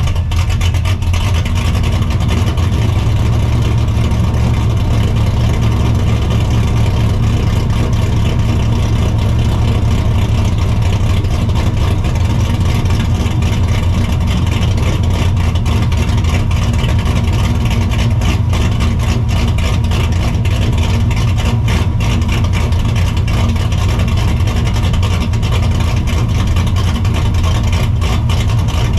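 Straight-piped, cammed and supercharged 5.4-litre two-valve V8 of a 1999 Ford Mustang GT idling steadily at the exhaust, loud and low, without revving.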